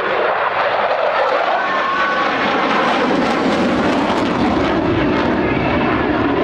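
F-16 Fighting Falcon fighter jet flying overhead. Loud, steady jet noise that grows deeper in its second half.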